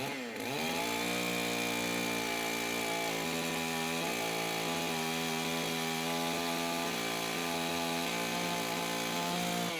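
Gas chainsaw revved up to full throttle about half a second in and held there, its pitch wavering slightly under load while trimming the side of an oversized poplar log so it fits through the sawmill; it drops back toward idle right at the end.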